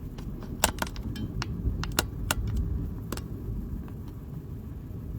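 Raindrops ticking irregularly on a car's body and windshield during a heavy thunderstorm, over a steady low rumble of rain and the car.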